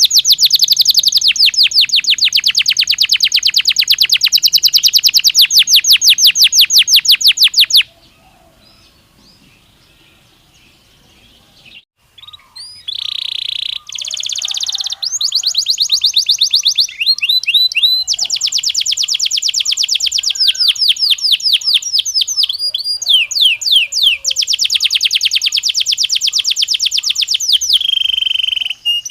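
Belgian canary singing: long, fast trills of rapidly repeated notes. The song breaks off about eight seconds in for a few seconds of near silence, then resumes with changing trills and rolls.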